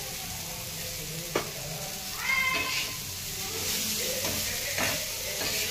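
Bitter gourd slices sizzling in oil on a flat iron tawa while a metal spatula stirs and scrapes them. There is a sharp tap about one and a half seconds in and a short high-pitched squeal about two seconds in.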